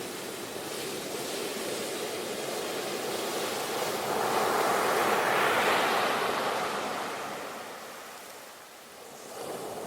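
Sea waves: the rush of surf swells to its loudest about five to six seconds in, then washes away to a lull near the end before the next wave starts to build.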